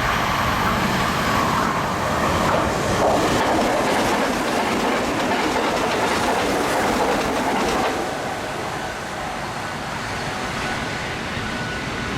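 Hanshin Main Line electric train running through Uchide Station at speed without stopping: steady rushing rail noise with wheels clacking over the rail joints, easing a little about eight seconds in.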